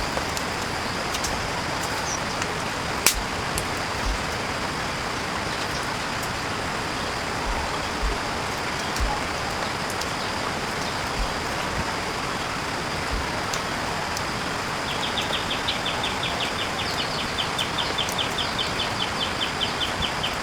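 Steady rain falling in the forest, with a few scattered drips and thuds. About three-quarters of the way through, a rapid, high, evenly pulsed chirping call joins in.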